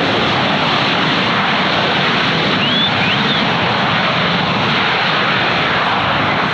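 Jet airliner's engines passing close, a loud, steady rush of noise.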